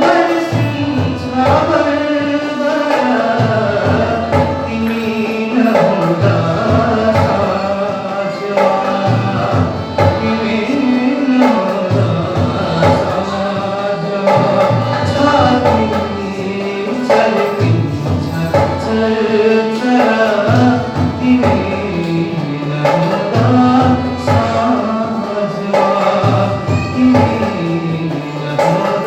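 Nepali modern song (ādhunik gīt) sung by a male singer over instrumental accompaniment.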